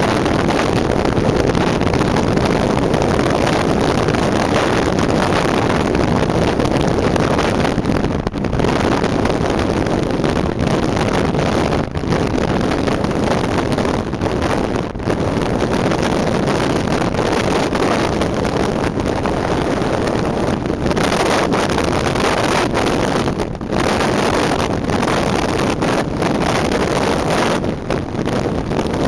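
Steady road and wind noise of a car driving along a highway, with wind rushing over the microphone and a few brief dips.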